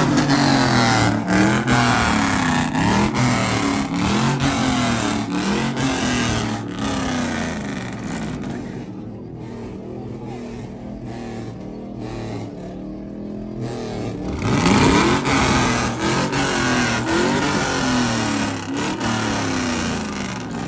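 A vehicle engine revving hard over and over, its pitch climbing and dropping about once a second. It eases off in the middle, then comes back with a big rev about fifteen seconds in.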